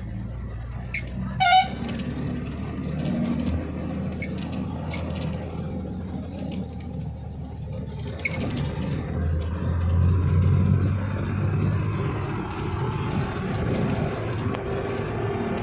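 Vehicle engine and road noise heard from inside a moving vehicle, with a short horn toot about a second and a half in. The engine drone grows louder around ten seconds in, then settles.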